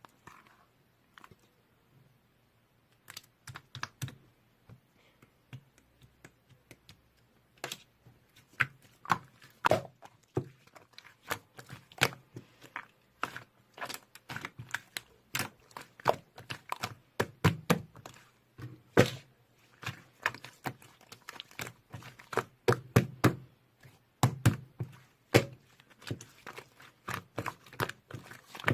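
Typing: a fast, uneven run of taps and clicks that starts about three seconds in and grows steady and dense from about eight seconds on.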